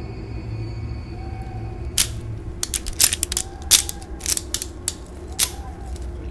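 Bone-cracking sound effects: a string of sharp, irregular cracks and clicks starting about two seconds in, a man's joints being wrenched out of place. A low steady drone stops just as the cracks begin.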